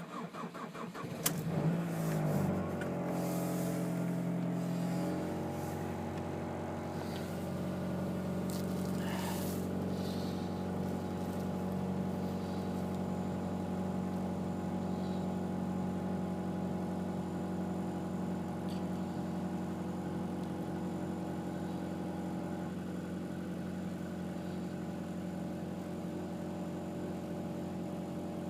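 Ford Focus 2's 2.0-litre four-cylinder petrol engine cold-started in hard frost: the starter cranks for about two seconds, the engine catches and revs briefly, then about five seconds in settles into a steady fast cold idle.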